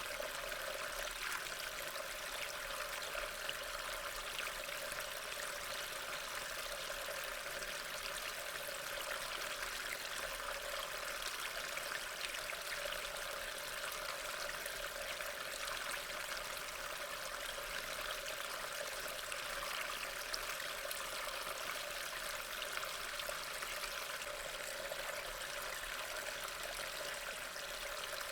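Steady rain falling: an even hiss with fine patter that holds at a constant level throughout.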